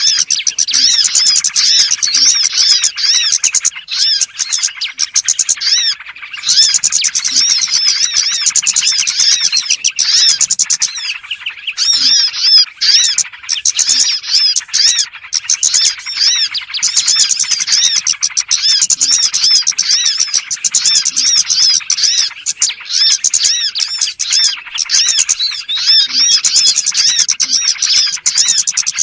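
Dense, unbroken chatter of many small birds chirping and twittering at once, high-pitched and rapid: a lure call recording played to draw small birds in for trapping.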